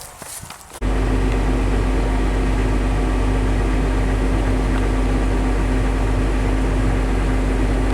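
Farm machinery engine running at a steady speed: a constant low drone with a steady hum. It cuts in abruptly about a second in.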